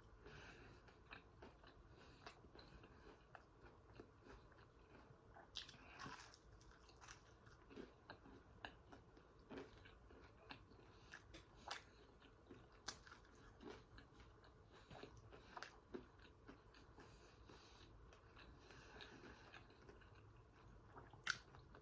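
Faint close-up chewing and mouth smacking while eating fried food, with scattered soft crunches and clicks.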